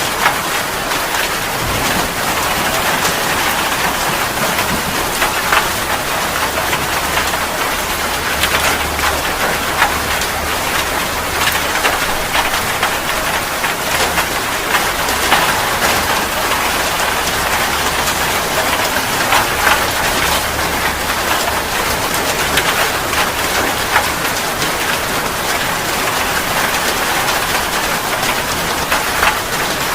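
Steady rain falling, an even hiss with many sharp drop hits scattered through it.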